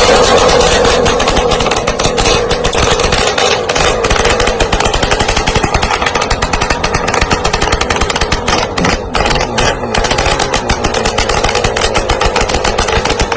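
A small engine running hard close to the microphone, with a fast, rattling pulse that goes on without a break.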